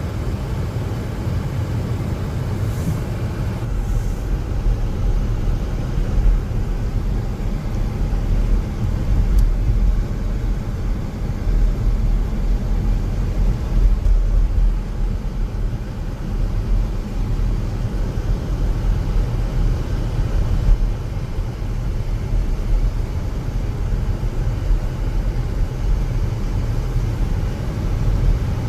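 Steady road noise inside a moving car: a low rumble of engine and tyres with a constant hiss above it.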